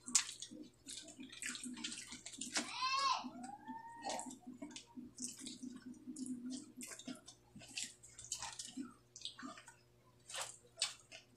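Close-up eating sounds: wet chewing and mouth clicks and smacks, repeated irregularly, as rice and dried fish are eaten by hand. About three seconds in there is a short pitched sound that rises and falls.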